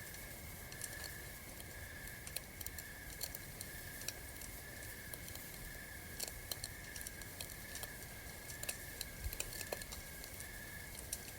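Campfire crackling: irregular sharp pops and snaps scattered over a soft hiss, with a steady high-pitched tone running underneath.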